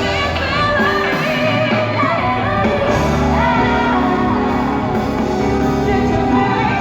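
Female pop singer belting high, sliding vocal runs over loud band accompaniment.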